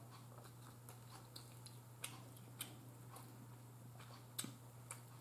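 Near silence with a steady faint hum and scattered small clicks, the loudest about four and a half seconds in: quiet chewing and fingers picking meat off an air-fried chicken leg.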